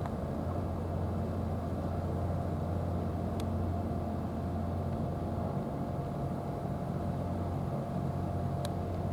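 A steady low engine hum that holds at the same pitch and level throughout, with a thin steady tone above it and a couple of faint ticks.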